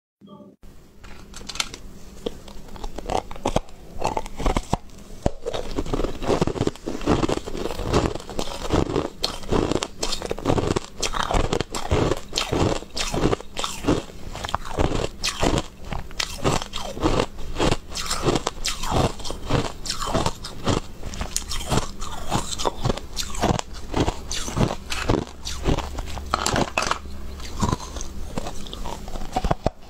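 Close-miked crunching and chewing as someone bites into and chews hard, frost-covered white balls, many sharp crunches a second without a break.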